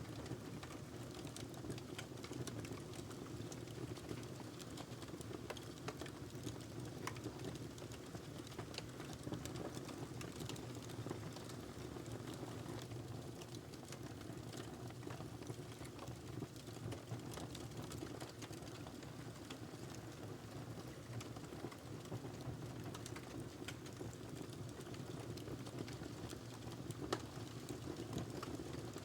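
Wood fire burning in a fireplace: a steady low rush of flames with frequent small irregular crackles and pops.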